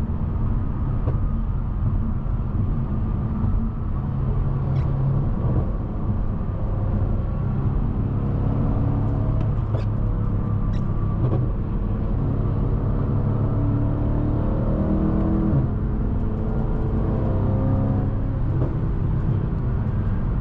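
V8 car engine and exhaust running under a steady low rumble, its pitch climbing several times in the second half as the car accelerates.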